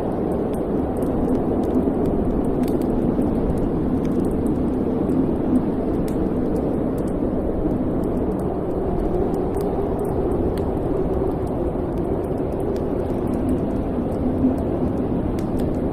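Wood fire burning in a fireplace: a steady low roar of flames with scattered faint crackles, and a slightly louder pop about five and a half seconds in and another near the end.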